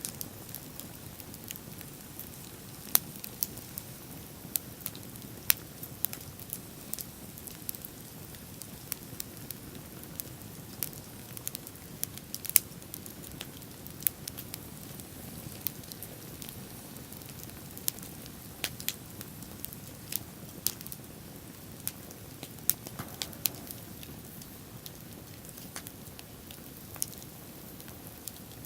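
Wood bonfire crackling: irregular sharp pops and snaps, a few much louder than the rest, over a steady low rushing background.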